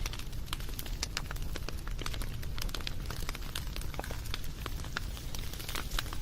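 Wood campfire crackling: many irregular sharp pops and snaps over a low steady rumble of the flames.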